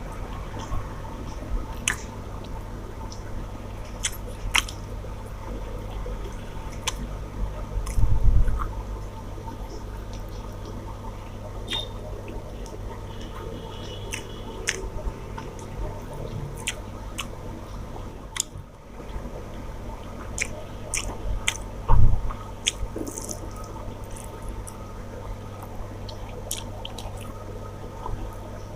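Close-miked eating sounds: chewing, wet squishing and scattered mouth clicks while eating rice with fish curry. There are two louder low thumps, about eight seconds in and again about twenty-two seconds in.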